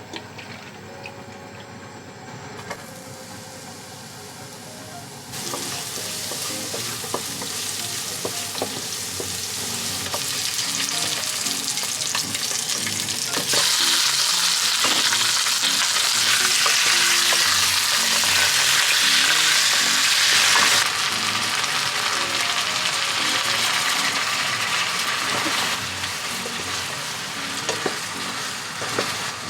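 Chicken adobo sa gata frying in a pan, a steady sizzle that comes in strongly about five seconds in and is loudest for several seconds in the middle before easing a little.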